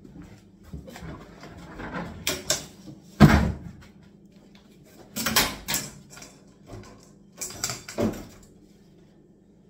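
A string of wooden knocks and clunks as a kitchen worktop and units are worked loose. The loudest is a heavy thud about three seconds in, with further double knocks around five and eight seconds in.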